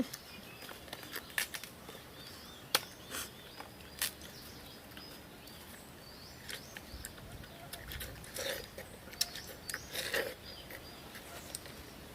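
Scattered crisp clicks and bites of people eating watermelon, with birds chirping faintly in the background.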